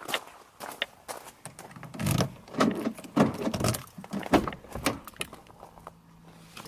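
Irregular clicks, knocks and rattles of things being handled and set down, loudest in a cluster about two to four seconds in, with a faint steady hum near the end.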